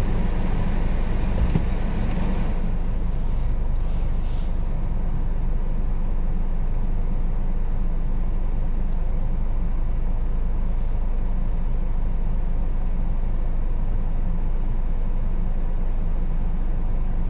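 Car driving slowly over a rocky dirt road: a steady low rumble of engine and tyres, with a few brief rattles in the first few seconds.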